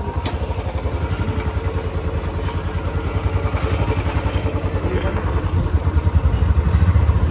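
Royal Enfield Bullet's single-cylinder engine running as the motorcycle rides along, a steady low exhaust beat that grows louder near the end.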